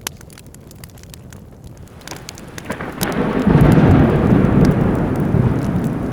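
Wood fire crackling with scattered sharp pops, while a deep roll of thunder builds from about two seconds in, peaks loudly and slowly fades.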